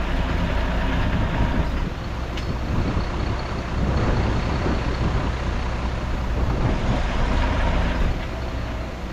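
Heavy diesel earthmoving machinery running, a bulldozer or dump truck engine, its loudness dipping and rising a few times.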